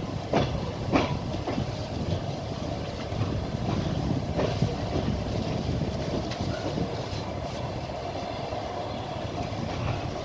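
Passenger train carriage running along the track: a steady rumble with the clack of wheels over rail joints, several sharp knocks in the first two seconds and another about four and a half seconds in.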